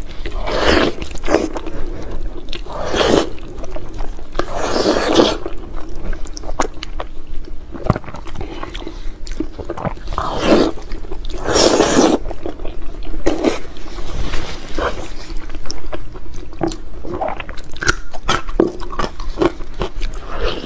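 Close-miked biting and wet chewing of braised pig's trotters. Loud bites and chews come in irregular bursts every one to a few seconds, with many small clicks and smacks between them.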